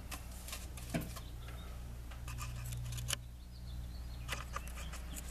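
Scattered small clicks and taps of metal tools being handled, over a steady low electrical hum.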